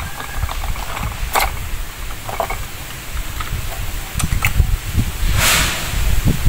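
Scattered clicks and metal knocks of parts and tools being handled, over a steady low rumble, with a short hiss about five and a half seconds in.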